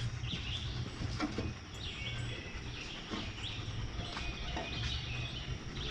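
Faint bird chirps, a few short calls spread out, over a low outdoor background rumble.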